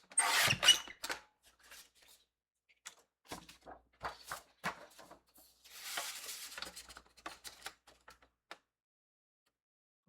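Patterned paper being handled and cut on a paper trimmer: scattered clicks and knocks, with a loud rustling slide in the first second and a longer one about six seconds in.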